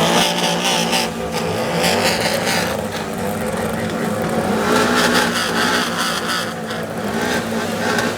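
Car engine running, loud and steady with some rise and fall in its note.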